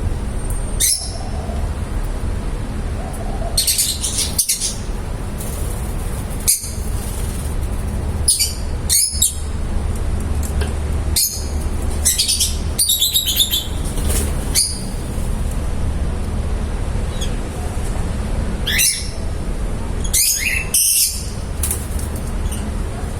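Small pet parrots chirping in short, shrill calls, about a dozen scattered through, some in quick clusters, over a steady low hum.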